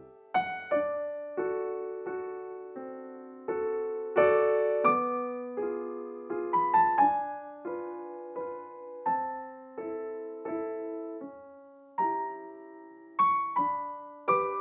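Gentle background piano music: soft chords and a simple melody, each note struck and fading.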